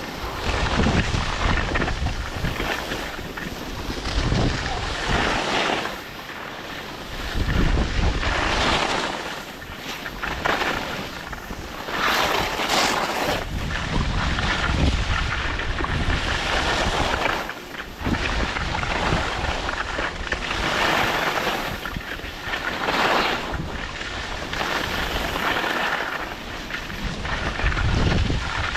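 Wind buffeting the microphone during a downhill ski run, a rushing rumble and hiss that swells and drops every second or two.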